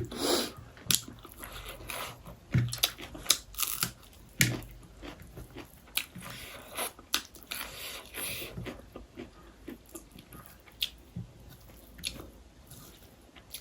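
Close-up mouth sounds of eating chicken biryani: chewing and biting, with irregular wet smacks and small crunches.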